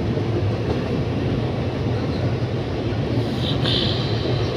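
Train crossing a railway bridge, heard from aboard: a steady, heavy rumble of wheels on rails, with a brief high squeal about three and a half seconds in.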